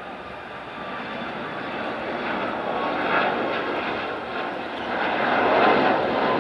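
Jet airliner taking off, its engines a steady roar that grows louder as it draws near.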